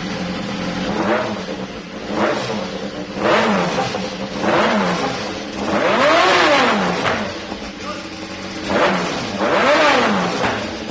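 BMW S1000RR inline-four engine revved through an SC titanium slip-on muffler: seven quick throttle blips from idle, one held a little longer near the middle, each rising and falling back to a steady idle.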